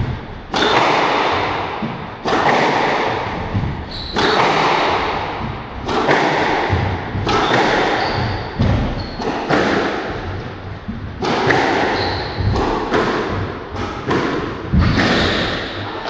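Squash rally: a hard rubber squash ball struck by racquets and hitting the court walls, a sharp smack about every one to two seconds, each ringing out in the enclosed court.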